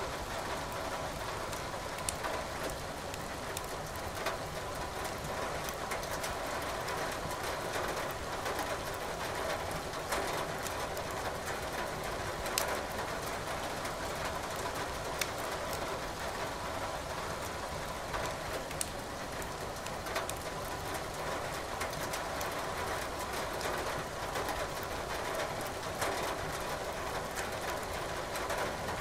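Firewood crackling in a fireplace, scattered sharp pops over a steady hiss of rain.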